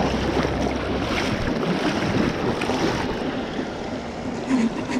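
Fast creek current rushing and splashing, a steady loud wash of water noise, with a low wind rumble on the microphone that fades out about a second and a half in.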